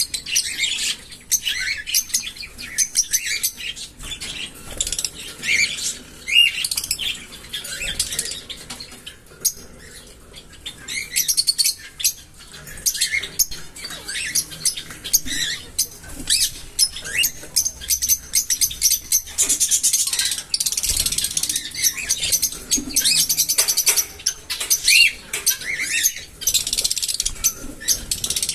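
Small pet parrots chattering with rapid, high, twittering chirps and clicks, with a quieter lull about a third of the way through.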